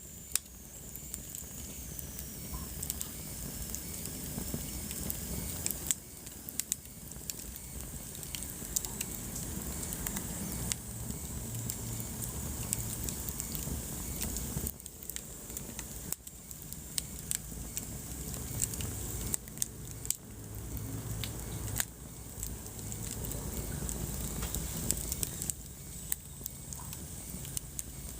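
Wood fire burning in a fireplace: scattered sharp crackles and pops over a low, steady rumble of the flames.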